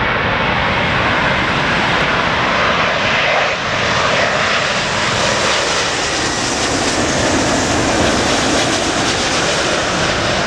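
Heavy jet airliner, an American Airlines Boeing 777, passing low overhead on final approach: a loud, steady engine roar.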